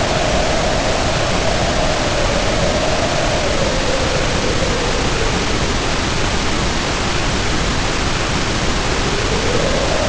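Storm sound of heavy rain pouring down as a steady, dense hiss, with wind howling over it in a low whistling tone that slowly rises and falls in pitch.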